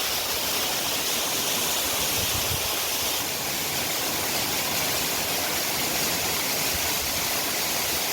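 Waterfall on a small stream pouring steadily: an even, unbroken rush of falling water.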